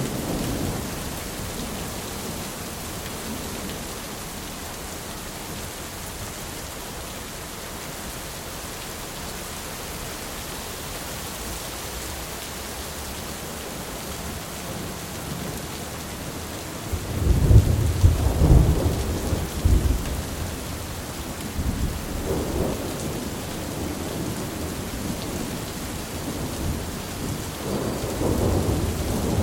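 Steady heavy rain with rolling thunder: a loud thunder rumble breaks out a little past halfway and rolls on for a few seconds, and more rumbling builds near the end.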